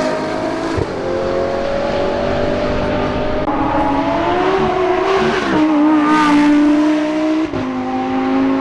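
A high-performance car engine revving under acceleration, its pitch climbing steadily and then dropping sharply twice, about five and a half and seven and a half seconds in.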